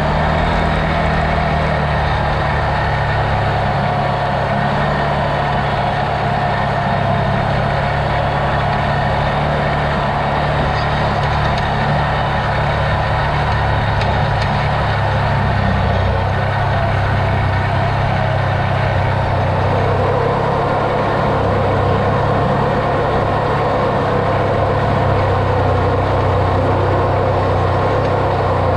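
Vehicle engine running steadily while driving, a continuous low drone with no break.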